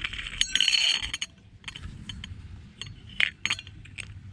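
Small spinning wheel coasting down, its pointer clicking over the pegs: a brief rush of sound, then separate ticks about three a second.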